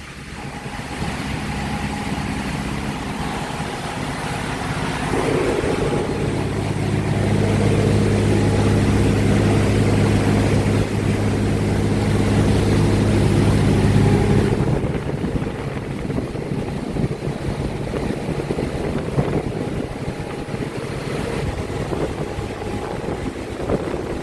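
Motorboat engine running under way over wind and water noise. Its drone climbs about five seconds in and again around seven seconds, as if throttled up. It drops back sharply about fifteen seconds in.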